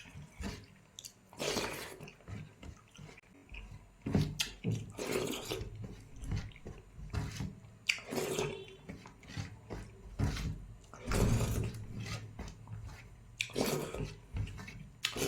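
Close-up eating sounds of someone chewing dal, rice and roti: wet chewing, lip smacks and irregular mouth clicks.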